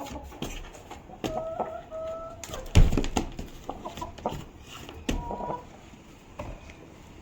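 A pet animal making a run of short, odd calls, a few of them held on a steady pitch, with a sharper, louder call about three seconds in.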